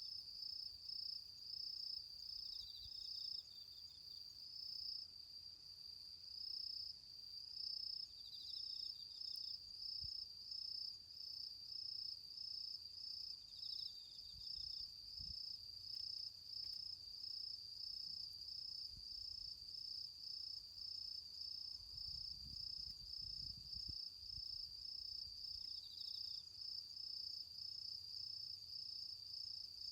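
Crickets singing in autumn: one keeps up a steady, evenly pulsed chirping, while a second, lower-pitched insect gives short trills every few seconds. A faint low rumble comes a little past the middle.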